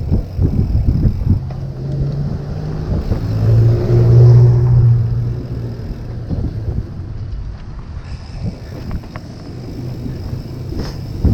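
A motor vehicle's engine hum on the road, swelling about four seconds in and then fading as it passes, over wind rumble on the microphone.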